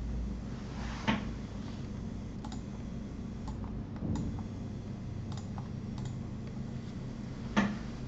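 Asus GTX 980 Ti Strix graphics card under benchmark load: a steady electrical hum from coil whine, with scattered crackling pops, about seven in all, the loudest about a second in and near the end. The uploader takes this for a bad unit.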